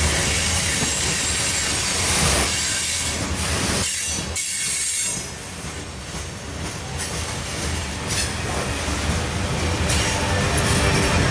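Norfolk Southern freight train's covered hopper cars rolling past close by: a continuous rumble and clatter of steel wheels on the rails with a high wheel squeal. The sound dips briefly about five seconds in, then picks up again.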